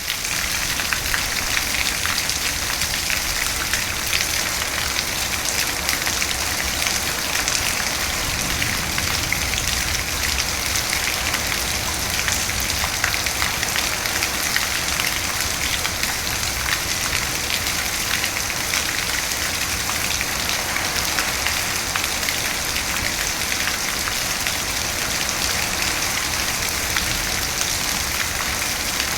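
Steady rain falling, a dense, even patter of drops striking a surface.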